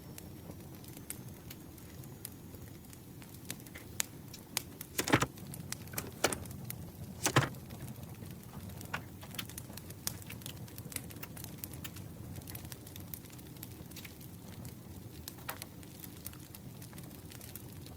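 Campfire crackling steadily with many small pops. A few louder, sharper sounds stand out about five to seven seconds in.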